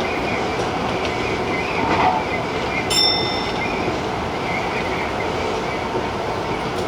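Tobu Tojo Line TJ Liner electric train running at speed, a steady rumble of wheels on rail with a light clickety-clack. About three seconds in, a brief high-pitched tone rings for under a second.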